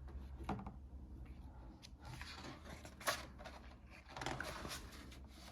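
Faint paper rustling and light clicks as the pages of a picture book are handled and turned, with a sharper click about three seconds in and a longer rustle near the end.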